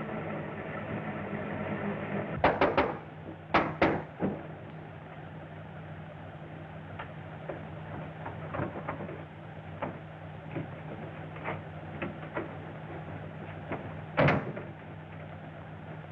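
Door-like knocks and bangs: a quick cluster of loud knocks a few seconds in, then lighter scattered clicks and one more loud knock near the end, over a steady low hum.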